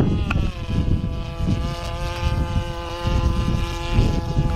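Model airplane's O.S. Wankel rotary engine running at a steady high pitch, dropping slightly about half a second in and then holding. Wind buffets the microphone underneath.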